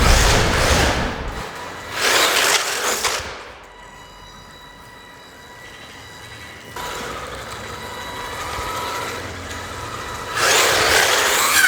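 Brushed electric motor of a WLtoys 144002 RC monster truck running up in three loud bursts, with quieter steady whine between them.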